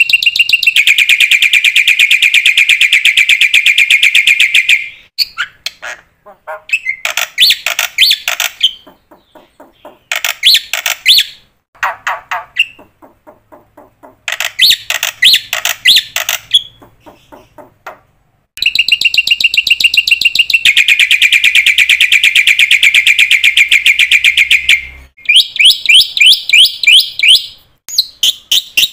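A bird singing in loud, rapid trills: two long rolls of about four seconds each, with shorter choppy phrases and brief pauses between them.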